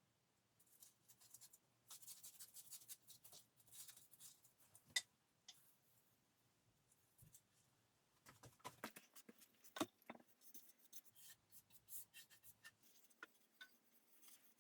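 Faint hand work at the workbench: runs of quick, light scratching strokes, with two sharp clicks, about five and ten seconds in.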